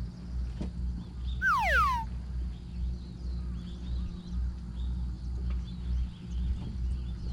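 Outdoor ambience: a steady low rumble with many faint, quick chirps throughout, and one loud falling whistle about one and a half seconds in.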